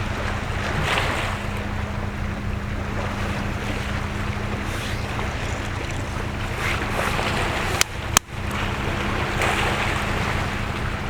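Steady outdoor rushing noise that swells and fades every couple of seconds, under a faint low hum. Two sharp clicks come about eight seconds in.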